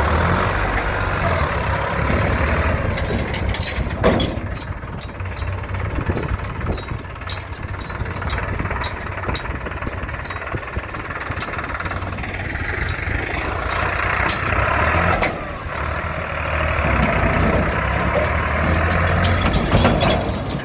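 Tractor diesel engine running hard, its sound swelling and easing as it pulls a loaded trolley. There is one sharp knock about four seconds in.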